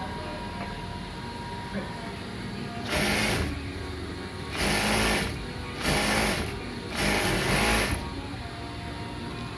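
Industrial sewing machine run in four short bursts, each half a second to a second long, with short pauses between as the operator feeds the fabric.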